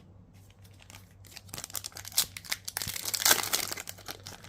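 Foil booster-pack wrapper crinkling and tearing as a trading card pack is ripped open. The crackling starts about a second and a half in and grows louder toward the end.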